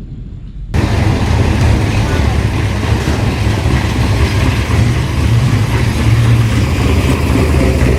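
Car engine running with a loud low rumble, starting abruptly under a second in, with voices in the background.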